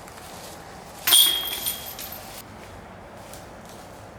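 A disc golf disc hitting the chains of a basket: a sudden metallic clash about a second in that rings for just over a second.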